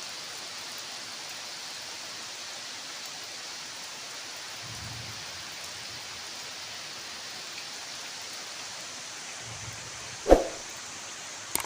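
Steady hiss of rain falling, with one sharp knock about ten seconds in.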